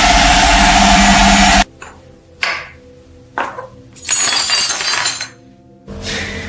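Workshop sounds: a loud, steady machine noise, like a power tool running, cuts off suddenly. Two sharp knocks and a burst of noisy sound follow, then a quieter steady hum starts near the end.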